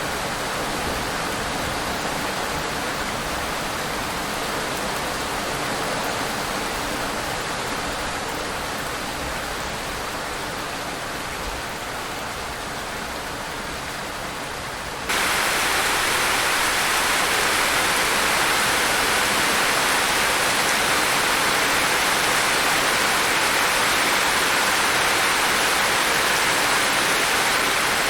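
Steady rain falling, an even hiss. About halfway through it changes abruptly to louder, brighter, heavier rain.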